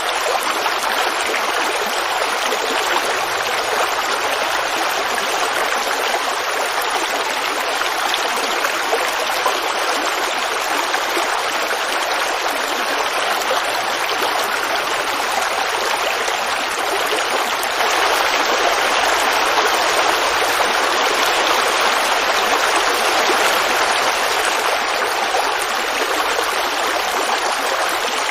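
Creek water running and babbling over rocks, a steady rushing sound that grows slightly louder for several seconds after the middle.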